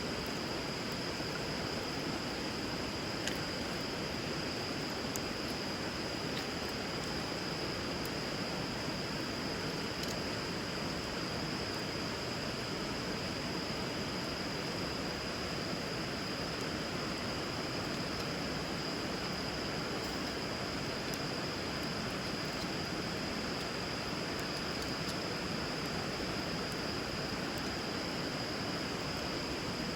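Steady rush of river water with a few faint, brief crackles from a bonfire, over a steady high-pitched tone.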